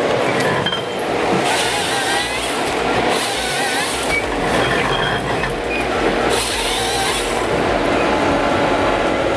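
Heavy forestry machine working, with a continuous mechanical noise, short high squeaks and three bursts of hiss.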